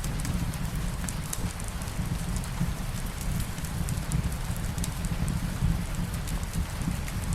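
Steady rain with a fireplace fire giving off scattered small crackles, over an even low rumble.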